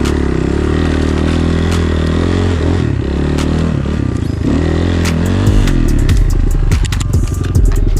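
Enduro motorcycle engine running under the rider, its revs rising and falling as it is ridden over rough ground. Sharp clattering knocks join in and become frequent in the second half.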